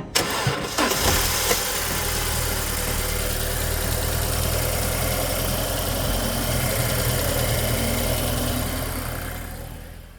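Audi A4 engine starting within the first second, then idling steadily on freshly replaced spark plugs. The sound fades out near the end.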